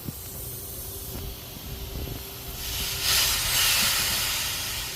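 Pressurized gas hissing out through a copper refrigerant line set as it is blown out during flushing. The hiss swells to a loud rush about two and a half seconds in and eases off near the end.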